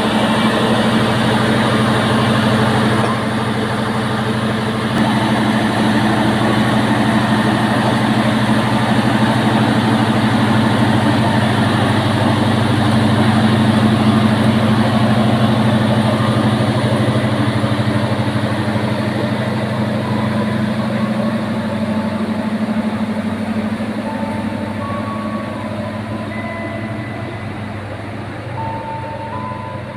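A diesel train's engine running with a steady low drone, slowly growing quieter over the second half. Near the end, a few short high beeps sound over it.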